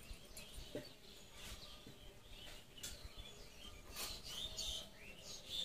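Faint chirping of small birds, with a few soft clicks and taps of fingers working rice on steel plates.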